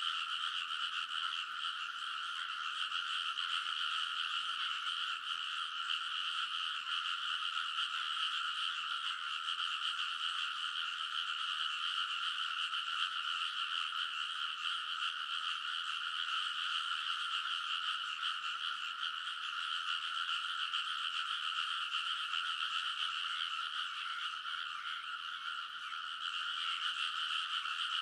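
A dense chorus of many frogs calling in a rice paddy, their calls merging into a continuous, unbroken wall of croaking.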